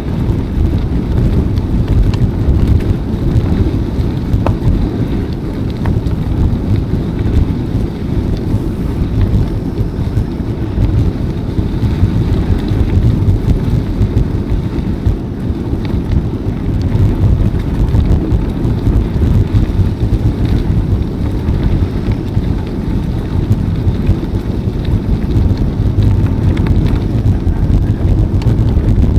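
Steady, loud low rumbling of wind buffeting the microphone of a bike-mounted camera while riding.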